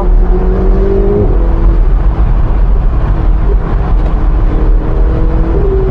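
Ferrari 488 GTB's twin-turbo V8 on its stock exhaust, under way in race mode: a deep steady rumble with an engine hum whose pitch climbs slightly, drops about a second in, then holds steady. The stock exhaust note is subdued, with little to hear beyond the turbo.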